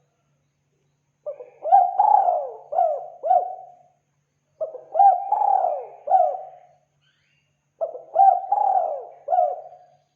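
Spotted dove cooing: three phrases of several coo notes each, one every three seconds or so, as used for a lure call for catching the species.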